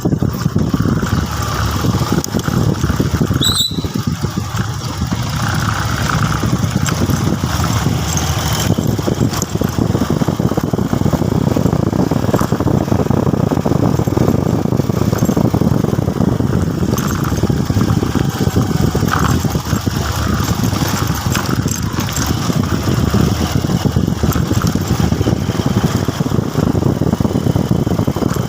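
Motorcycle running steadily on the move, with dense rushing noise in the low range throughout and a brief high squeal about four seconds in.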